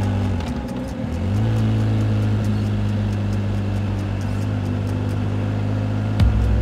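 Motorcycle engine running under way, its revs dipping briefly about a second in and then picking up again.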